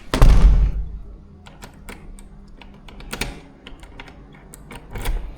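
A door shutting with a loud thud, followed by a series of small sharp clicks and knocks as the door is locked.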